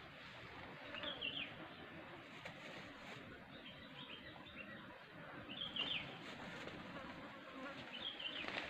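A bird calling faintly, a short squiggly falling phrase repeated about four times, roughly every two seconds, over a steady faint outdoor hiss.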